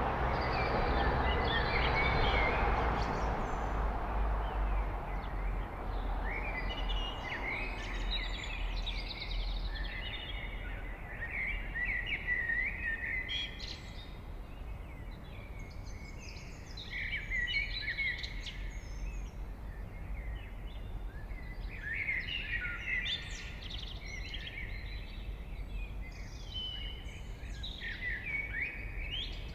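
A blackbird singing in separate phrases of fluting and twittering notes, several seconds apart. A broad rushing noise swells and fades over the first few seconds, over a low steady background rumble.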